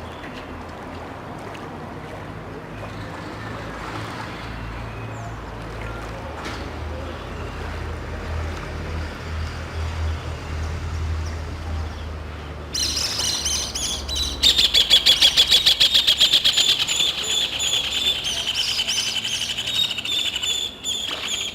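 A low steady rumble for the first half, then about thirteen seconds in a loud chorus of birds calling breaks in: a high, fast-pulsing chatter, loudest a couple of seconds after it starts, that carries on until near the end.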